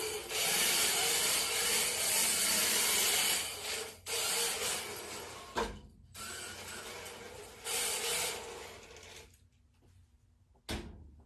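A 1/10 scale Sakura D5MR rear-wheel-drive RC drift car's hard plastic tyres sliding and scrubbing across the floor in surges as it drifts. The noise dies away about nine seconds in, and a single thump follows near the end.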